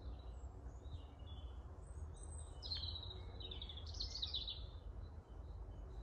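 Songbirds singing in the trees: faint scattered chirps, then two short, bright, rapid song phrases about halfway through, over a steady low rumble.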